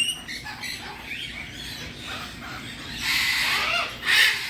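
Pet parrots calling: a short whistled note, then a long harsh squawk about three seconds in and another shorter squawk near the end.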